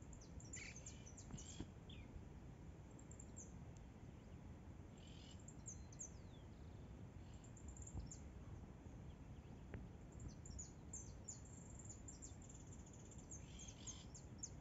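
Near silence with faint wild birds chirping: many short, high chirps and quick falling notes scattered throughout, over a low background rumble.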